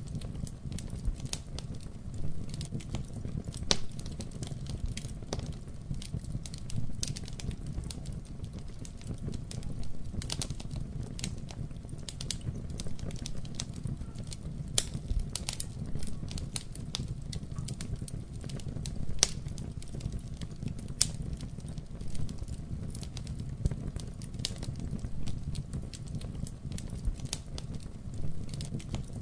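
Wood fire burning in a fireplace: irregular sharp crackles and pops over a steady low rumble of the flames, with a couple of louder pops past the middle.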